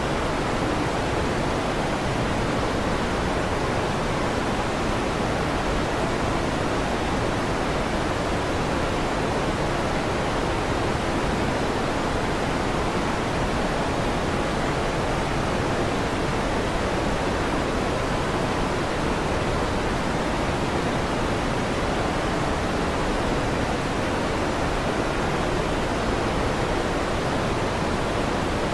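Steady electric fan noise: an even, unchanging hiss with no rise or fall.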